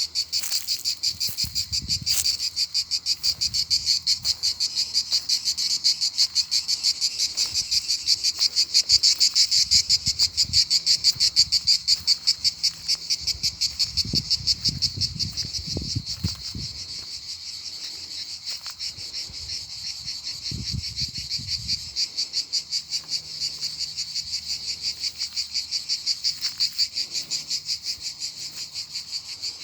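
A continuous high-pitched animal chorus, frogs or insects calling, pulsing several times a second. Low rumbles come and go around the middle and again about two-thirds of the way through.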